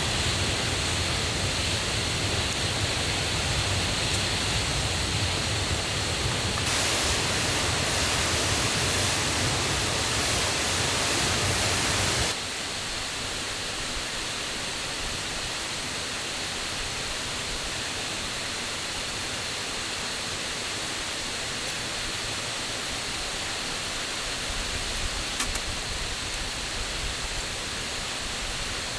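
Steady rushing of a forest waterfall and mountain stream, swollen with the previous day's rain. About twelve seconds in the sound abruptly becomes quieter and loses its low rumble, and a few faint clicks come near the end.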